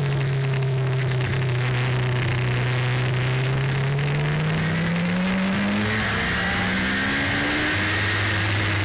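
Car engine heard on board, its note dropping over the first few seconds and then rising again, over a steady rushing noise.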